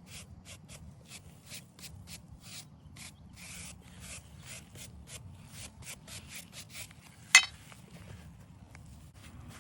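A brush scrubbing a headstone's stone surface in short, quick strokes, about two to three a second, with one sharp click about three-quarters of the way through.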